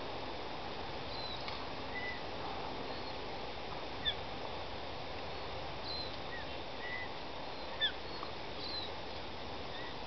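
Wild birds calling outdoors: scattered short chirps and whistles, with two sharper descending calls about four and eight seconds in, over a steady background hiss.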